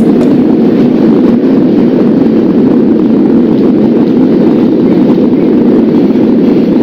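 Steady, loud rumble of a New York City subway train running along the track, with no break or change.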